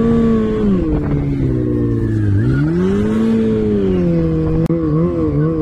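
Off-road vehicle engine under load, its revs swelling up and falling back twice, then rising and falling quickly several times near the end. A brief click about 4.7 s in.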